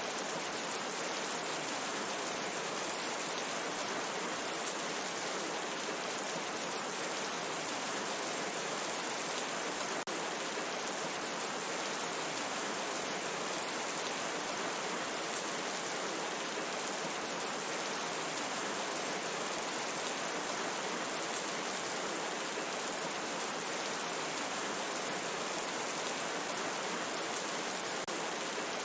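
Steady rain falling in a forest, an even hiss that holds level without breaks.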